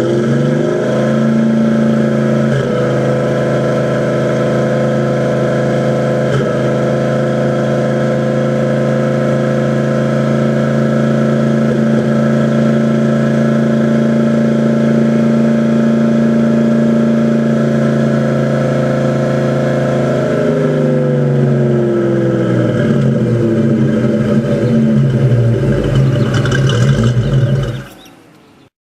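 Fox-body Ford Mustang engine held at a raised, steady speed, then dropping back to idle over a few seconds before it stops suddenly near the end. It runs with a misfire that the owner cannot trace, and the steady note breaks briefly twice in the first several seconds.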